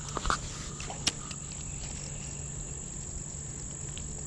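Steady, high-pitched insect trill running unbroken, with a few short clicks in the first second or so.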